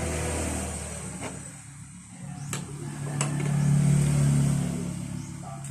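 A motor vehicle's engine passing by, its hum swelling to a peak about four seconds in and then fading, with a few sharp clicks over it.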